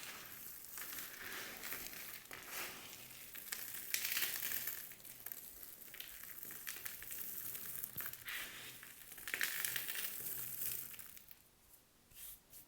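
Dry soap being cut and crushed, a dense crunching and crumbling, with louder crunches about four seconds in and again near ten seconds, then dying away near the end.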